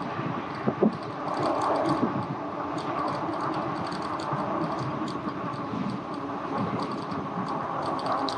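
Riding noise of an e-bike rolling on a road: a steady hum with frequent light rattles and clicks from the bike over the pavement.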